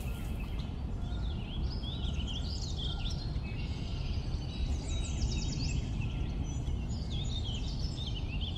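Several birds chirping and calling, their short high calls overlapping, with a fast run of chirps about five seconds in, over a steady low rumble.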